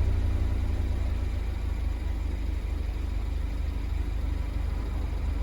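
Subaru WRX S4's turbocharged FA20 flat-four idling through its stock exhaust and muffler shortly after a cold start. The note eases down and grows a little quieter over the first second or two, then holds a steady, low idle.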